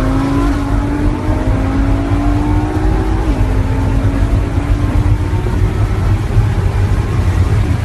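Vehicle engine accelerating: its pitch climbs steadily, drops suddenly about three seconds in, then fades under a heavy low rumble.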